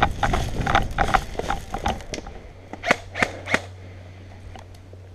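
Airsoft guns firing: a quick, irregular run of sharp shots for about two seconds, then a few separate single shots about three seconds in.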